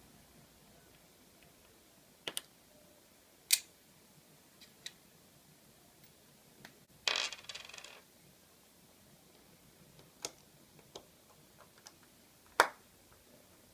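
Small metal tools and phone parts clicking and tapping against a hard work surface during phone disassembly, a handful of separate sharp clicks with a short rattling scrape about seven seconds in.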